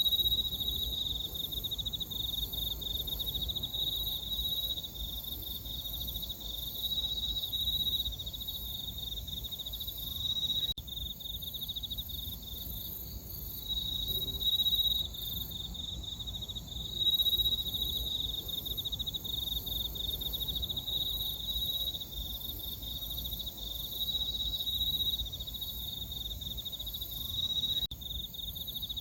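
Crickets and other autumn night insects chirping together in a steady chorus: one dense, rapidly pulsing trill, with thinner, higher-pitched trills layered above it.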